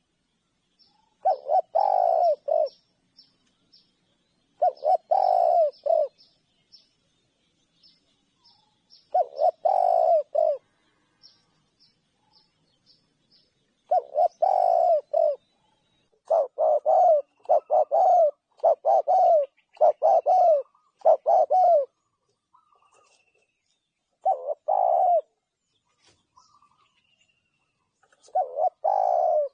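Spotted dove cooing: phrases about a second long, repeated every few seconds and coming in a quick run of six or so around the middle. A small bird's high chirps sound over it, in a fast ticking series through the first half.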